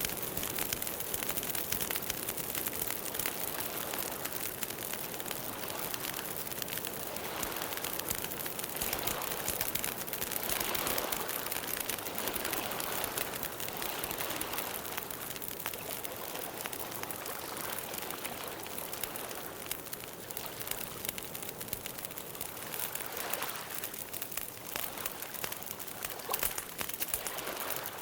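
Campfire burning with a steady, dense crackle of small pops.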